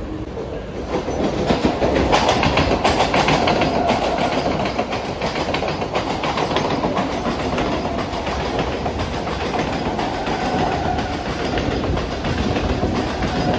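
Mumbai suburban electric local train running past, its wheels clattering over the rail joints in quick clicks over a steady rumble, with a faint whine under the clatter. It grows louder about a second in and stays loud as the coaches go by.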